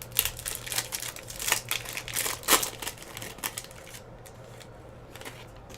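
Trading-card pack wrapper crinkling and tearing as it is opened, a dense run of crackles that dies away about four seconds in. A low steady hum runs underneath.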